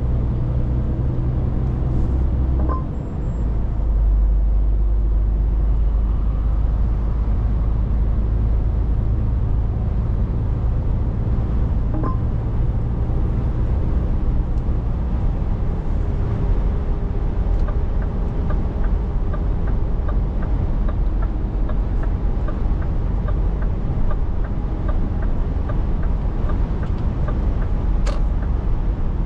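Scania 500S truck driving under way, its diesel engine and road noise a steady low rumble inside the cab. The level dips briefly about three seconds in, then the low engine note comes back stronger. In the second half there is faint, regular ticking, a little under two a second.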